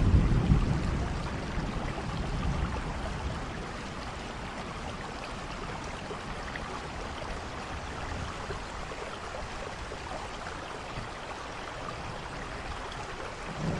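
Steady rain, with a low rumble of thunder at the start that dies away over the first couple of seconds; another rumble begins to build near the end.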